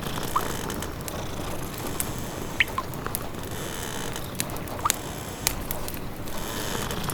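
Wood fire crackling in a fireplace, with a handful of sharp pops and snaps scattered through, over a steady low rumbling background.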